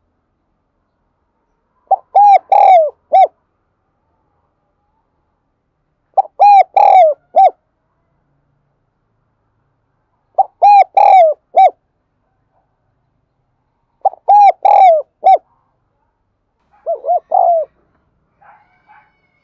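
Spotted dove cooing its song: a loud phrase of three or four rounded notes, repeated four times about every four seconds with silence between. A quieter, lower phrase follows near the end.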